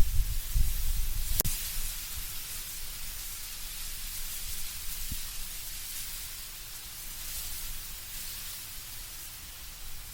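Wind blowing through autumn trees with leaves rustling, a steady hiss. A stronger gust with a low rumble in the first second or two, then it eases, with a single sharp click about a second and a half in.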